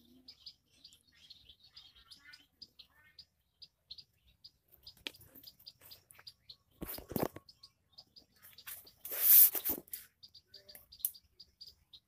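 Small birds chirping in the trees: short, high chirps repeated many times a second or so apart. A brief loud rushing noise comes about nine seconds in.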